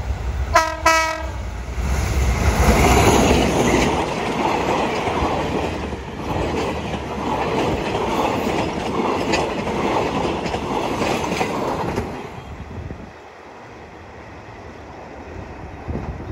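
A short blast on the horn of an SRT Alsthom diesel-electric locomotive, then the train running past with a dense rolling rumble that dies down about twelve seconds in.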